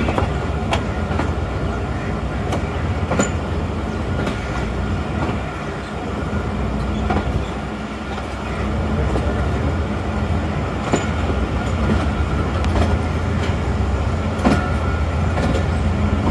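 Moving passenger train rolling slowly out of a station: a steady low rumble with irregular sharp clacks of wheels over rail joints.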